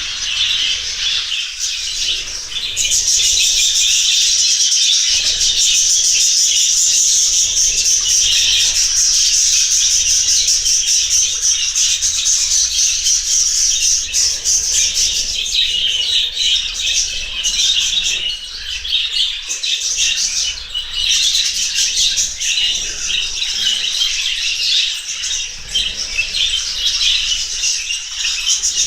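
A flock of lovebirds chattering and squawking together in a dense, continuous high-pitched din.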